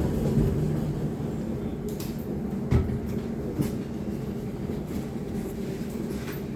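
Steady low rumble of a moving passenger train heard from inside the carriage, with two sharp knocks a little under a second apart about three seconds in.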